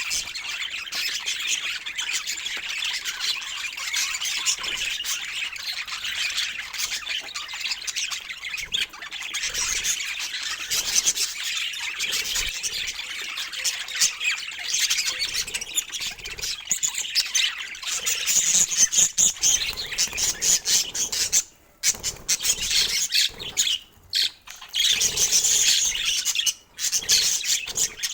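Pet budgerigar chattering in a continuous rapid warble, with a few short breaks in the last third.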